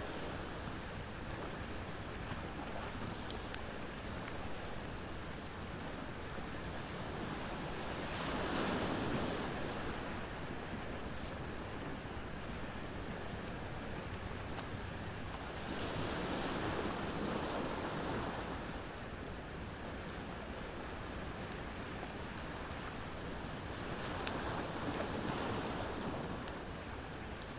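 Ocean waves washing onto the shore, swelling three times about eight seconds apart over a steady surf hiss, with a couple of sharp pops from a crackling bonfire near the end.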